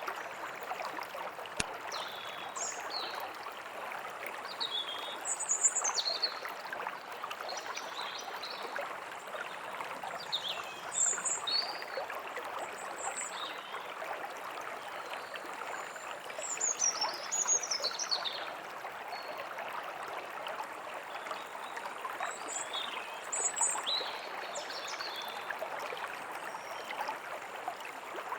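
Forest ambience: a stream running steadily, with small birds chirping in short quick calls above it every few seconds.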